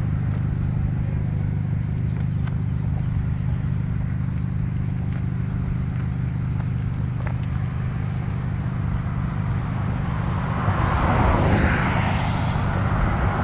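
A motor vehicle engine running at a steady low idle. About ten and a half seconds in, a broad rushing noise rises over it, like a car passing on the road.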